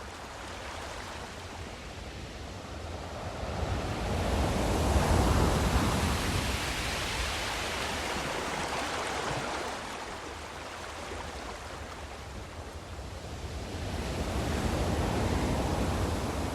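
Sea waves washing, swelling in two long surges, one about a third of the way in and another near the end.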